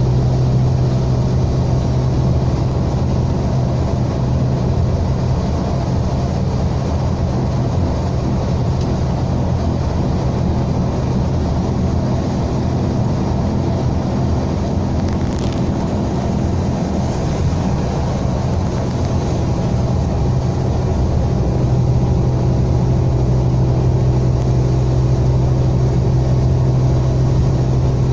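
Scania K320 coach's 9.3-litre DC9 five-cylinder diesel engine running steadily under way, a loud even drone holding one pitch, with a brief sharp click about halfway through.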